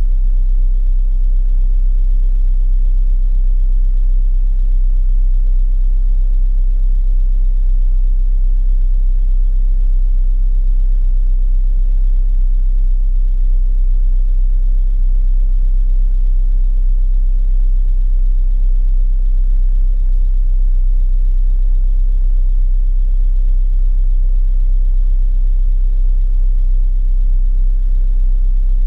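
Rover Mini's A-series four-cylinder engine idling steadily, a low even rumble with no revving.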